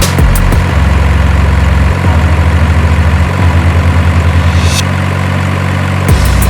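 Heavy diesel truck engine idling with a low chugging pulse that changes speed a few times, with a brief hiss nearly five seconds in. Music beats are heard at the very start and near the end.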